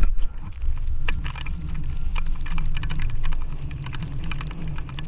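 Wind rumbling on the microphone, with rapid, irregular crackling from footsteps crunching through snow.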